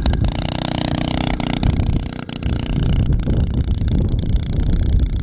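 Small dirt bike engine running, dipping briefly about two seconds in before picking up again.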